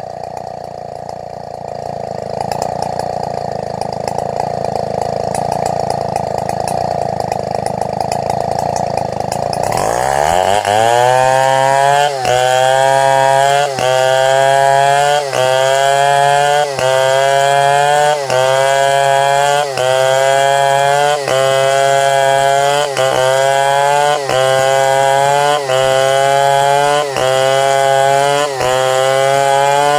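Chainsaw ripping a durian log lengthwise into boards, running hard under load. About ten seconds in, its note turns clearer and higher, then rises and dips in a regular cycle about every one and a half seconds.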